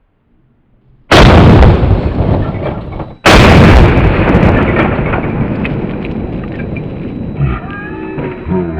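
Two very loud shotgun blasts about two seconds apart, from a 20-gauge Remington 870 firing rifled slugs. Each blast cuts in suddenly and fades out over a long tail.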